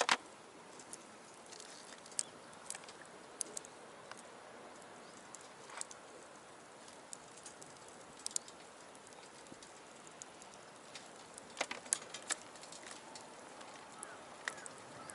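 Wood fire crackling in a small box stove: irregular sharp pops and snaps over a faint steady hiss, with a cluster of louder cracks about twelve seconds in.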